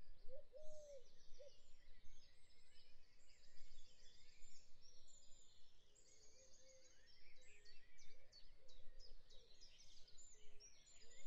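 Faint birdsong: several small birds chirping and trilling, with a few lower held calls.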